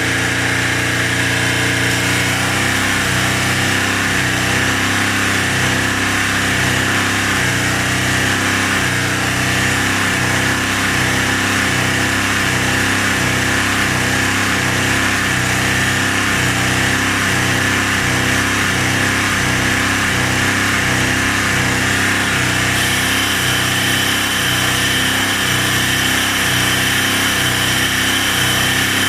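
2014 Subaru Forester's flat-four engine running steadily at raised revs, held up on the accelerator while engine conditioner is fed into the intake to clean out carbon deposits.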